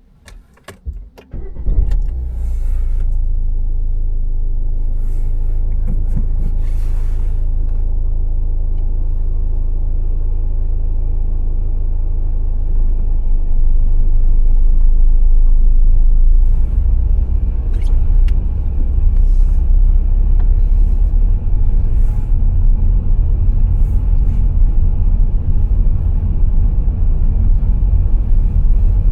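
Low, steady rumble of a car driving, engine and tyre noise together, after a few clicks in the first second or two. It grows a little louder about halfway through as the car gathers speed.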